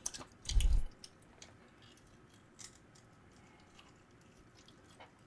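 A person chewing sauced fried chicken close to the microphone: faint scattered mouth clicks, with a short low thud about half a second in.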